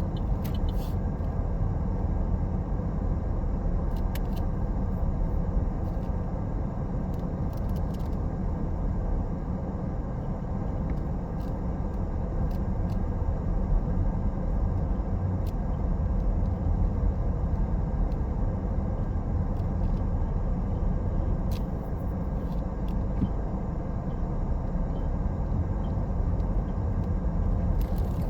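Car driving along a road: a steady low rumble of engine and tyre noise, with a few faint ticks now and then.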